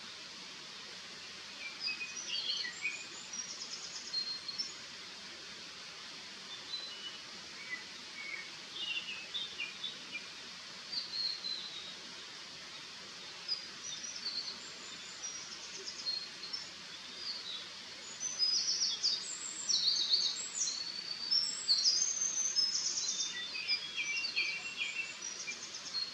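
Eurasian wren singing: short bursts of fast, high trilling notes, then a longer, louder stretch of song in the last third, over a steady background hiss.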